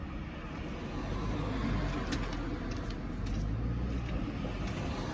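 Steady low vehicle rumble, with a few light clicks in the middle.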